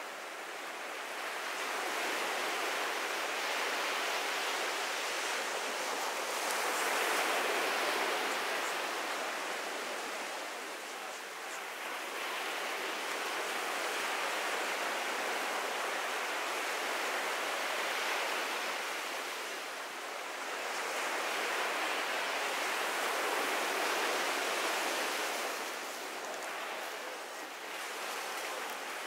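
Ocean surf washing onto a beach: a steady rushing noise that swells and eases every few seconds as waves come in.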